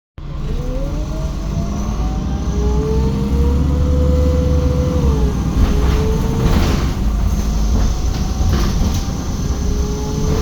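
Menarinibus Citymood 12 CNG city bus pulling away, its engine running under a heavy rumble. A whine climbs steadily in pitch, drops about five seconds in as the gears shift, then climbs again, with a few brief rattles.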